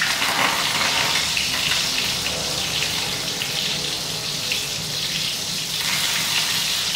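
Minced pork rolls wrapped in wild betel leaves sizzling in hot oil in a frying pan as a fresh batch is laid in: a steady hiss with fine crackle, easing slightly near the end.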